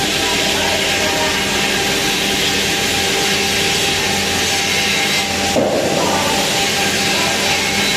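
Power tool running steadily at full speed on the steel of a gas cylinder, with a brief change in tone about five and a half seconds in.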